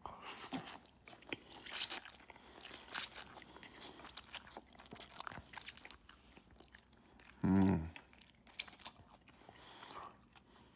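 Close-miked chewing of a mouthful of tuna and lemon pasta, with irregular wet mouth clicks and smacks. A short voiced 'mm' comes about three-quarters of the way through.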